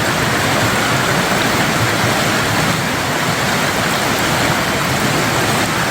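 Stream water rushing steadily, a loud even wash of flowing water.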